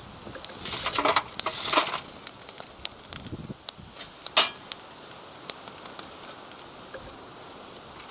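Campfire crackling: scattered sharp pops and clicks throughout. Louder rustling, scraping noise comes about one to two seconds in, and a single sharp clink-like knock comes a little past four seconds.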